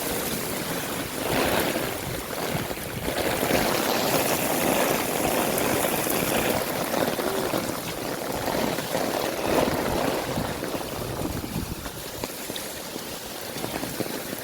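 Heavy rain falling, a dense steady hiss that swells and eases a little.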